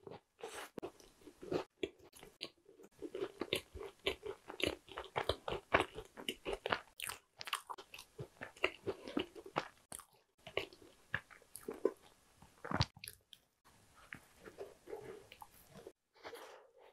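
Close-miked biting, crunching and chewing of a small tart with a crisp pastry shell, dense crunchy clicks mixed with wet mouth sounds, broken by a few brief gaps of silence.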